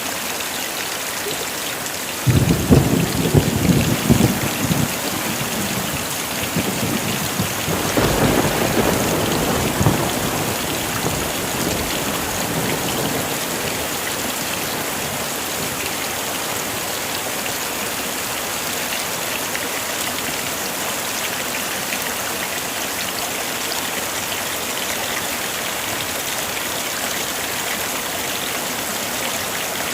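Heavy rain falling steadily, with two rolls of thunder: one starting suddenly a couple of seconds in and rumbling for a few seconds, another about eight seconds in.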